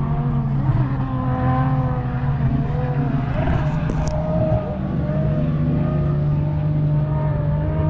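A car engine running at a steady speed, its pitch drifting slightly up and down.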